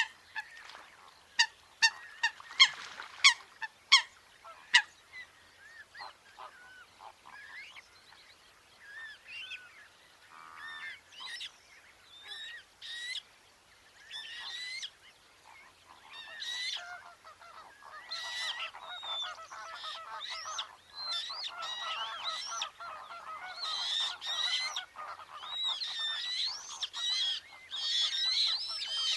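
Coots calling: a quick run of sharp, short, loud call notes in the first few seconds, then scattered calls. Over the last ten seconds the calls build into a dense, overlapping chorus that grows louder.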